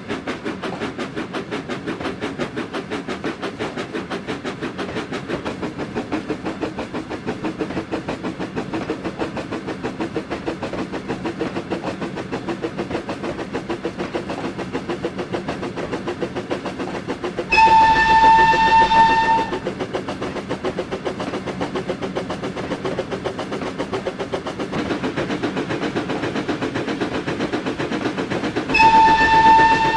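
Steam locomotive Flying Scotsman running with a fast, even beat, sounding two single-note whistle blasts: a two-second blast past the middle and a shorter one near the end, louder than the running.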